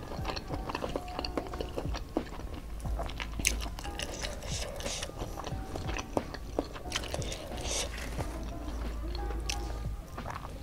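Chewing a mouthful of rice and spicy stir-fried squid, with many wet mouth clicks and smacks, and fingers squishing rice and handling a lettuce leaf.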